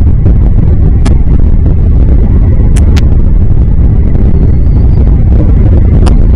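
Wind buffeting the microphone: a loud, steady low rumble, with a few short sharp ticks about a second in, around three seconds in and near the end.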